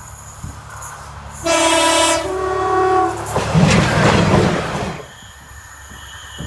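A diesel multiple unit sounds its two-tone horn about a second and a half in, a lower note then a higher one, then the train rushes past the crossing with a loud rumble that dies away after about five seconds.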